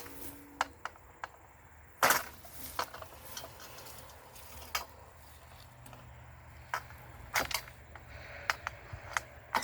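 Sharp, irregular clicks and knocks of a line wire being worked loose from a glass insulator on a utility pole's cross arm, about a dozen scattered strikes with the loudest about two seconds in.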